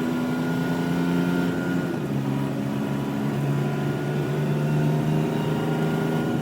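Truck engine running at a steady pitch.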